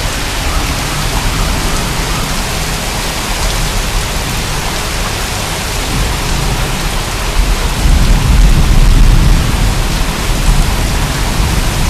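Heavy rain pouring down in a steady hiss. A deep low rumble swells beneath it about two-thirds of the way in.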